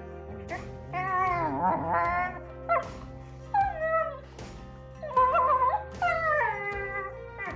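A dog whining and yowling in three drawn-out cries whose pitch wavers up and down, the first the longest, over background music.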